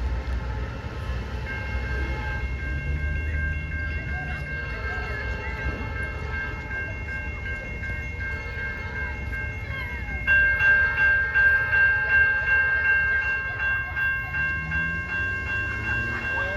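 Railroad grade-crossing bell ringing with a steady high tone, jumping louder about ten seconds in and pulsing about twice a second, over the low rumble of a train on the line.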